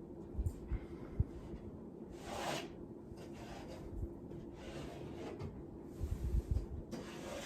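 A metal drywall T-square being handled against a sheet of drywall: a few soft knocks, a short scrape about two seconds in, lighter scrapes after, and more knocks near the end as it is positioned to mark a cut line.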